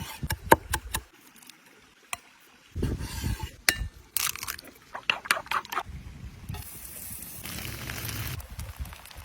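Outdoor cooking sounds: sharp clinks and knocks of utensils and cookware, a quiet pause, then more clinking and a steady hiss of liquid for about two seconds near the end.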